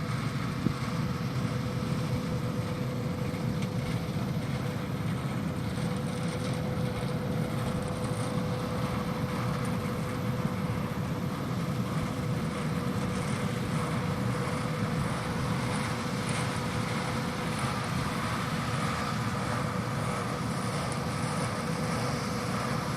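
John Deere 8R tractors pulling Amadas peanut pickers, running steadily through the field: a constant drone of engines and picking machinery with a steady whine held throughout.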